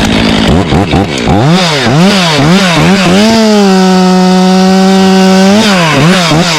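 Two-stroke chainsaw being revved: the throttle is blipped about twice a second, the pitch rising and falling, then held at full speed for about two seconds before a few more quick blips near the end.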